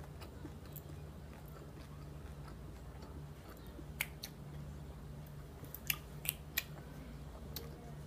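A person chewing a mouthful of salad with crunchy dried apple chips, with a few sharp crunches in the second half. A steady low hum underneath.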